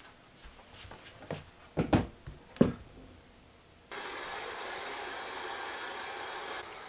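A few knocks and clatters, then a steady hiss that starts suddenly and keeps going.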